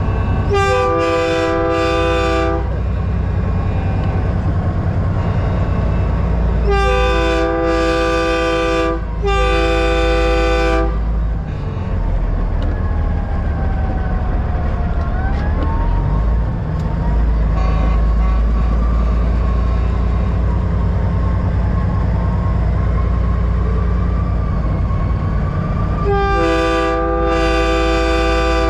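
Chorded train-style air horns on a semi truck blasting: three short toots at the start, two longer blasts a third of the way in, and two more near the end. Beneath them runs the steady rumble of a diesel truck engine and road noise.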